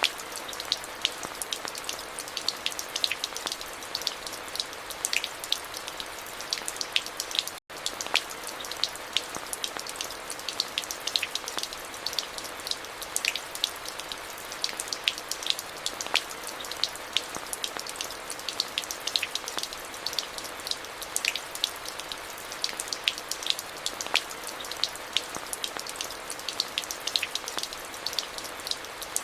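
Steady rain, a constant hiss with many individual drops ticking sharply on a hard surface close by. The sound cuts out for an instant about eight seconds in.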